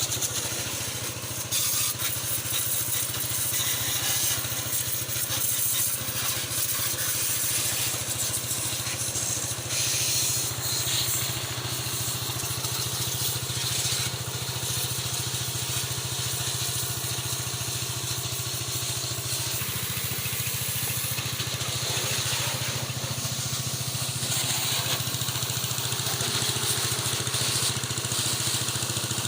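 Car-wash pressure-washer machine running steadily, with the hiss of its water spray over a low, even hum.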